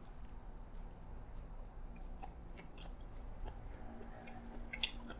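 Close-up chewing of a chewy marinated baby octopus: soft wet mouth clicks and smacks, a few sharper ones about two seconds in and again near the end.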